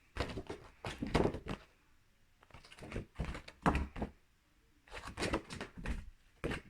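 A series of soft thuds and knocks in about six short clusters, roughly one a second, in a small room.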